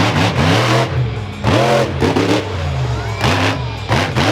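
Monster truck engine revved in quick repeated blips, its pitch rising and falling over and over, a few times a second.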